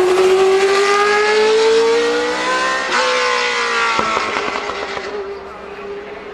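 Racing car engine accelerating hard under full throttle, its pitch climbing, then shifting up a gear about three seconds in and again a second later before fading as the car pulls away.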